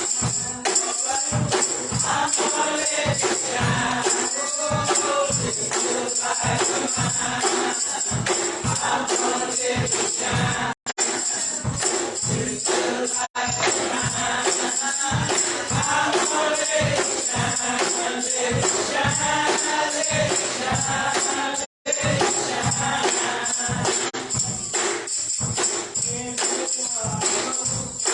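Gospel choir singing over a band with tambourine keeping a steady, driving beat. The sound cuts out for an instant three times.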